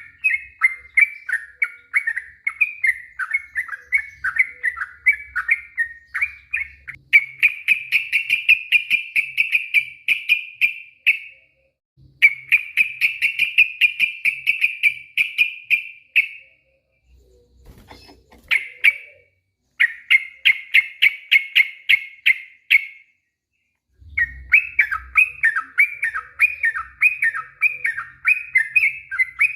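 Sooty-headed bulbul (trucuk) singing long, fast runs of repeated chirping notes, in several stretches a few seconds long with short breaks between them.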